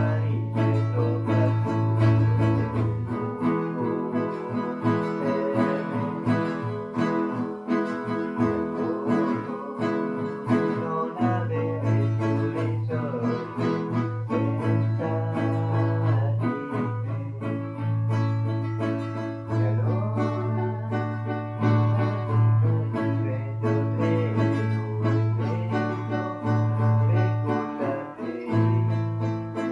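Guitar music: plucked and strummed guitar notes over a low sustained bass note that drops out briefly several times.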